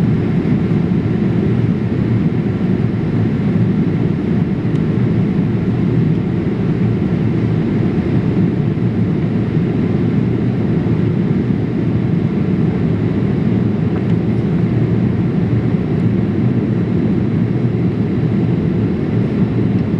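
Steady cabin noise inside a Boeing 787-8 airliner in flight: an even, unchanging rumble of engines and airflow.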